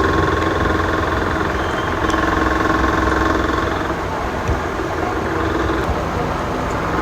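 A steady mechanical drone: a low rumble with a few faint, steady humming tones, like a running engine.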